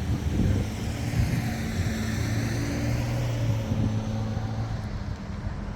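A motor vehicle going past: a steady low engine hum with a rushing noise that swells about halfway through and fades toward the end.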